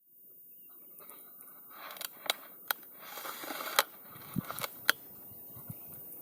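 Dry brush and spiny cactus pads being cleared: rustling and crunching with a handful of sharp snaps, the loudest a little after two seconds in, near four seconds and near five seconds.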